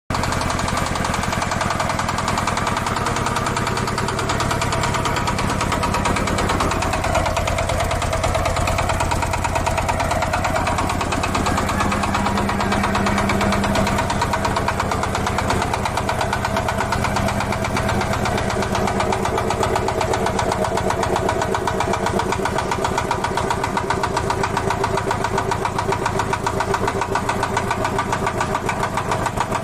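Old diesel engine running, with a rapid, even firing beat that holds steady throughout.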